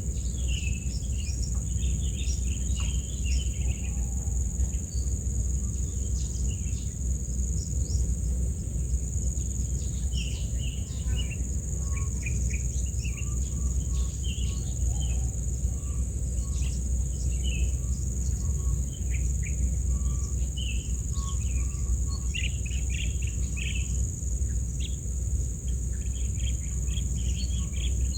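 A continuous high-pitched insect drone, crickets or cicadas, with many short bird chirps scattered over it, all over a steady low rumble.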